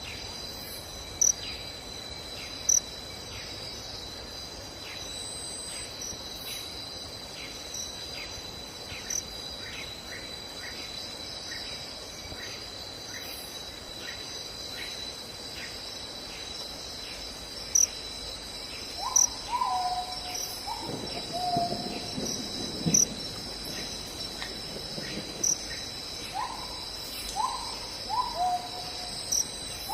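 Night forest insects trilling steadily with a high whine and a regular ticking call. About two-thirds in and again near the end, short falling hooting calls come in twos and threes.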